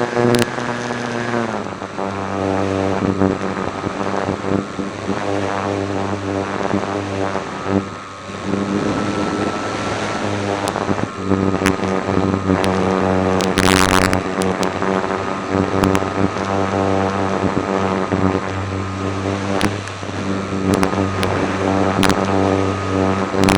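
Electric motor and propeller of a Slow Stick RC park-flyer droning steadily, heard from a camera mounted on the plane. Its pitch steps down and up several times as the throttle changes. A brief rush of noise comes about fourteen seconds in.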